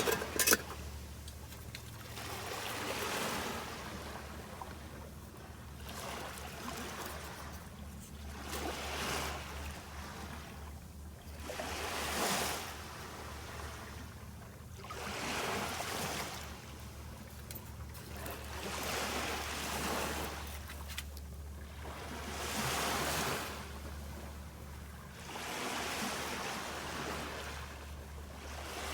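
Small waves washing up on a sandy beach, each wash swelling and fading about every three seconds.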